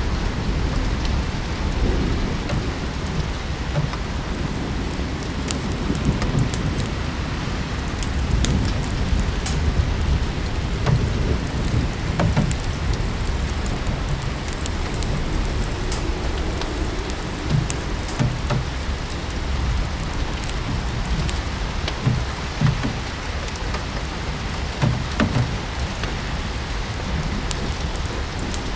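Steady rain mixed with a crackling wood fire: an even hiss and deep low rumble, with scattered sharp pops and clicks throughout.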